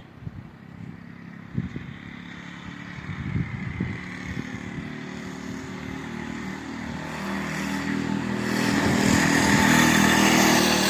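Mini bike engine approaching from a distance, growing steadily louder until it is close near the end.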